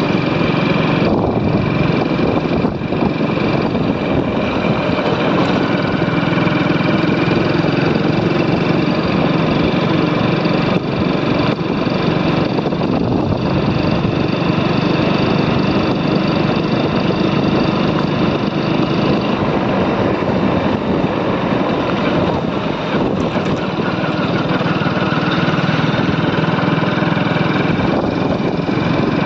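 Motorcycle engine running steadily under way, a dense, even drone with no let-up.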